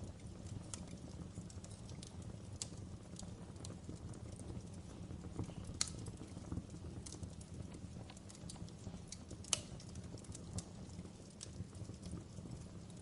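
Fire crackling: irregular sharp pops and snaps over a low steady rumble, with two louder pops about six and nine and a half seconds in.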